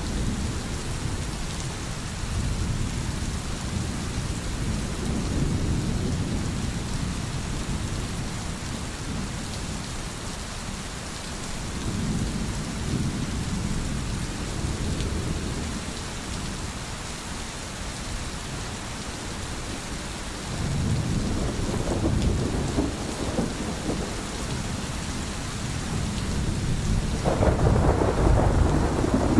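Steady heavy rain hissing, with rolling thunder that rumbles low and swells and fades several times. The loudest, fullest roll of thunder comes near the end.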